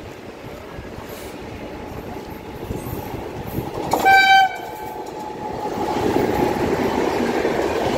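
Express train approaching a station at speed without stopping. One short blast of the locomotive horn comes about four seconds in, and the train's rolling rumble grows steadily louder toward the end as it draws near.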